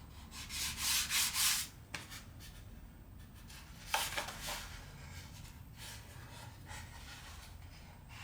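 Sandpaper rubbed by hand over the wooden fuselage of a model aircraft, with a few quick rasping strokes at first and lighter ones later. A sharp knock comes about four seconds in.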